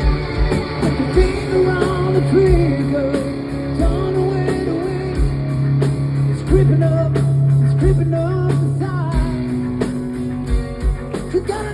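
Hard rock band playing live: distorted electric guitars and bass hold a sustained low chord under a lead melody that bends in pitch, with steady kick-drum hits.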